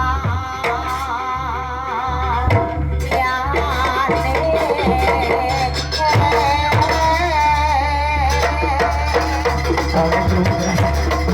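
Live Javanese jaranan campursari music: kendang hand drums beating under a wavering melodic line over a steady low bass.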